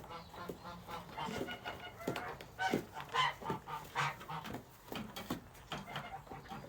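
Geese giving short, soft honking calls among a scatter of quick clicks and taps.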